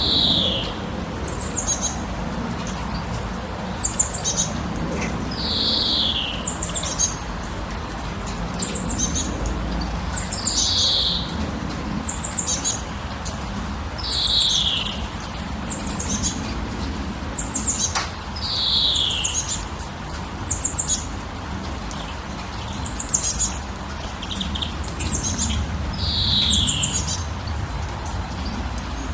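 Birds calling: one call slides downward, about a second long, repeating every four to five seconds, with short high chirps in between, over a low steady background noise.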